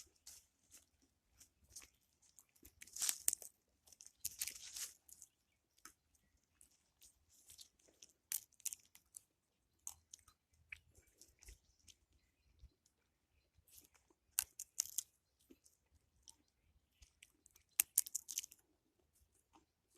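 Irregular crunching footsteps, a few at a time with pauses between them.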